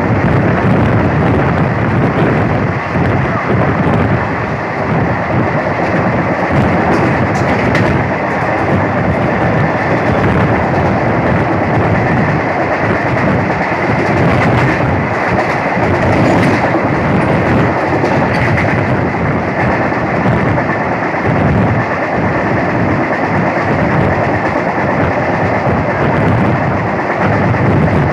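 Passenger train running at speed, heard from on board: a steady rumble and rush of noise with wheels clicking over the rail joints.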